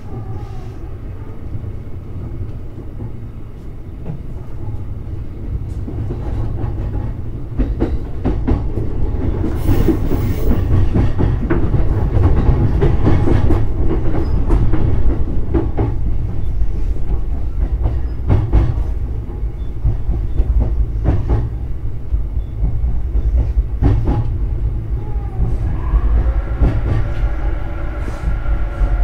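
JR East E531 series electric train running, heard from inside a passenger car: a steady rumble of wheels on rail with clacks over rail joints. It grows louder through the first half and eases off later, and a whine sets in near the end.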